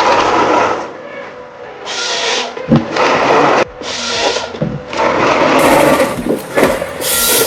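A power saw cutting into wood in repeated bursts, each under a second long with short breaks between, then a longer cut near the end.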